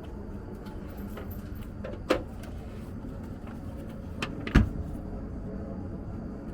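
Two sharp knocks about two and a half seconds apart, the second louder, over a steady low rumble.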